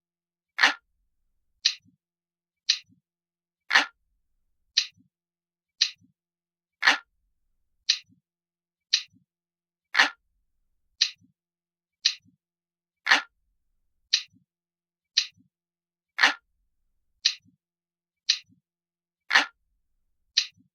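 Looped clock-ticking sound effect: sharp ticks about once a second, every third tick louder and deeper than the two between.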